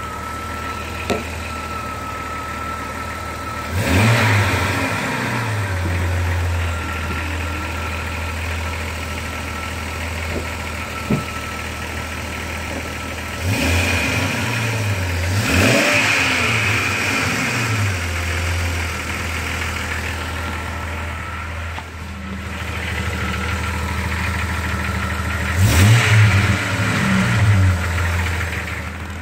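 Jeep 4.0-litre inline-six engine idling while it warms up, blipped several times so that the revs rise and fall back to idle. A thin steady whine runs over the idle for the first ten seconds or so. This is the warm-up noise the owner is recording as a concern.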